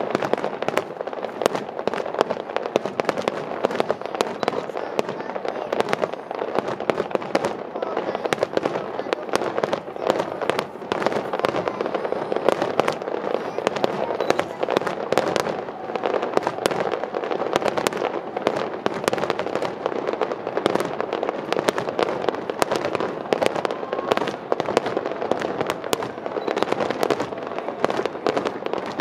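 Aerial fireworks display: many shells bursting in rapid, overlapping bangs and crackles, several a second, without let-up.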